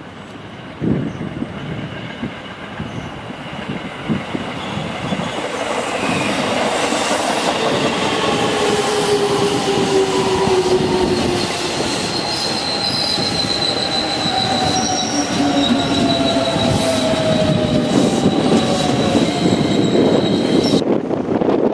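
Freight train rolling past, its wheels squealing on the rails, with several squealing tones sliding slowly downward in pitch over a rumbling, rattling rolling noise that builds over the first several seconds. The high squeal cuts off sharply near the end.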